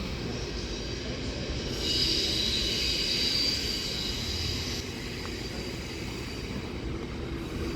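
Train running with a steady low rumble, and a high metallic wheel squeal that starts about two seconds in and lasts about three seconds.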